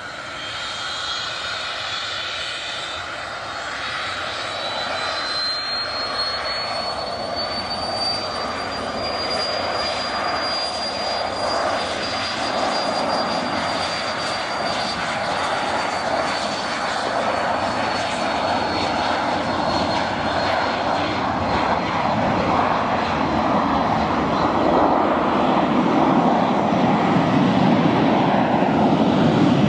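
Cessna Citation CJ2 business jet's twin Williams FJ44 turbofans. A thin high whine rises in pitch over the first ten seconds and then holds, over a jet noise that grows steadily louder, with a deeper rumble building near the end.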